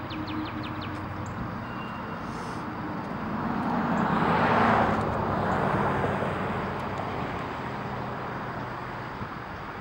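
Diesel locomotive engine running with a steady low drone, with a rush of noise that swells about four seconds in and fades away a couple of seconds later.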